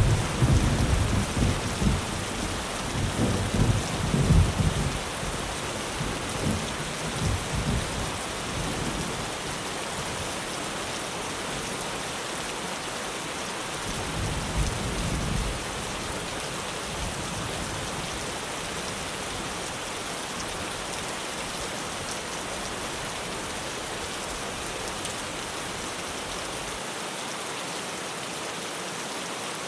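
Steady rain drumming on a tin roof, with a long rolling thunder rumble over the first several seconds and a shorter, fainter rumble about halfway through.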